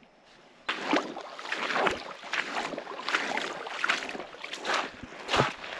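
Creek water splashing and sloshing in a run of irregular strokes, starting under a second in.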